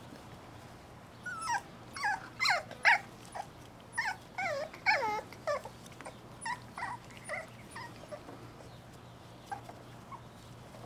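Cocker spaniel puppies whining and yelping: a run of short, high cries that slide down in pitch. They come thick and fast from about a second in to about six seconds, then thin out to a few fainter cries.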